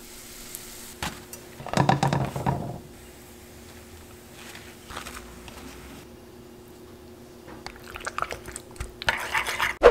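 Kitchen food-prep sounds: falafel sizzling in a pan of oil, with a louder burst of crackling about two seconds in. A spoon stirs and scrapes in a ceramic bowl near the end.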